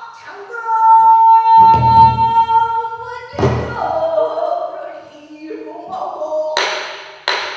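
Pansori singer holding long, wavering sung notes, with two low strokes of the buk barrel drum about a second and a half apart, and two sharp strokes near the end.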